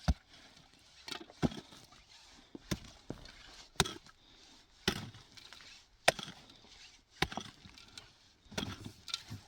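Hard chopping blows from a hand tool, repeated about once a second, each a single sharp strike.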